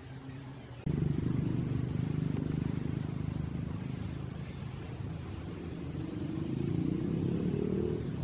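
A vehicle engine running with a low rumble, suddenly louder about a second in, its pitch rising near the end.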